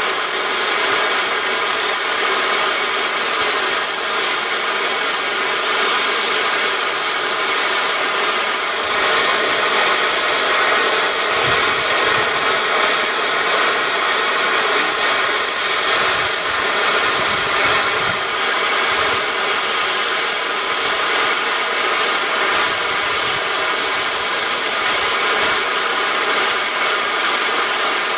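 Steam locomotive hissing steadily, with escaping steam that grows louder and harsher about a third of the way in and eases back again after about nine seconds.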